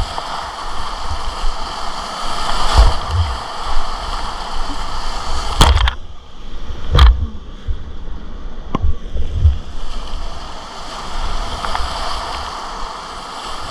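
Whitewater river rushing around a kayak, a steady wash of water noise with low rumbles. Three sharp knocks cut through it, about five and a half, seven and nine seconds in.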